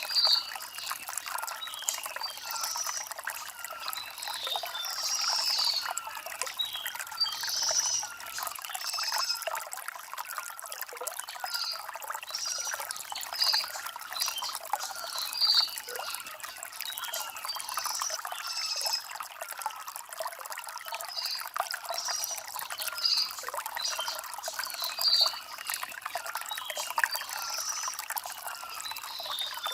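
Shallow stream of water trickling and gurgling over river stones, a steady splashing with small repeated gurgles.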